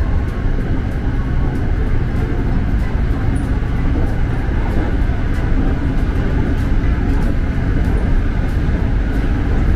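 SRT Red Line electric commuter train running, heard from inside the carriage: a steady low rumble of wheels on rail and running gear with a constant hum, and faint light ticks scattered through it.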